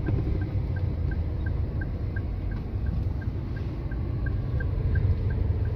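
Car interior road and engine rumble while driving, steady throughout, with a faint, regular high-pitched tick about three times a second.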